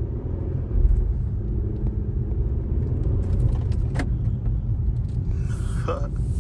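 Car cabin noise while driving: a steady low engine and road rumble that gets louder about a second in, with a single sharp click about four seconds in.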